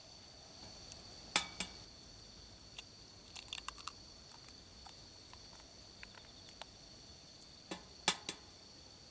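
Sharp clinks and taps of metal cooking utensils against pots and dishes, coming in small clusters: two loud ones about a second and a half in, a quick run of taps around three and a half seconds, and two more loud ones near the end.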